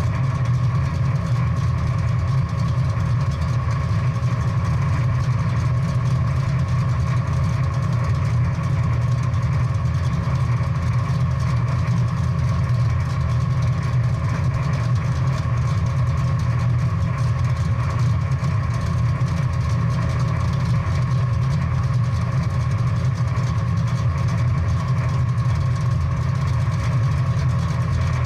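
Big-block V8 muscle car engine idling, a steady low drone that keeps an even pitch with no revving.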